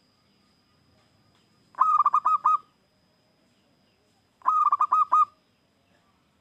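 Zebra dove (perkutut) singing: two quick phrases of staccato cooing notes, each a run of about five or six notes lasting under a second, the second phrase coming about two and a half seconds after the first.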